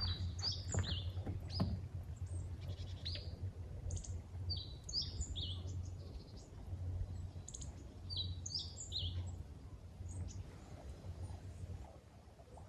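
A bird calling: a quick run of three or four high, falling chirps, repeated three times about four seconds apart, over a low steady rumble. A few sharp clicks in the first two seconds.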